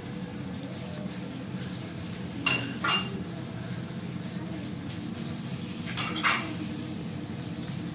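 Kitchenware clinking: two pairs of short, ringing clinks, about three and a half seconds apart, over a steady low hum.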